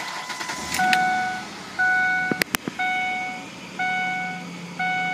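2004 Ford Explorer engine starting and settling into a steady fast idle. A dashboard warning chime sounds about once a second, and two sharp clicks come about halfway through.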